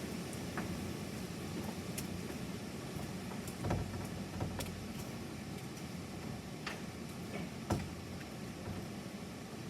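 Steady hiss of rain falling during a thunderstorm, with scattered sharp ticks of drops landing close by, a few per several seconds. No thunder is heard.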